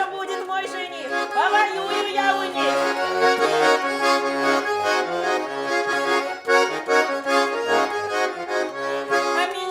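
Russian garmon (button accordion) playing an instrumental chastushki tune: sustained reedy chords over a steady, rhythmic pattern of bass notes.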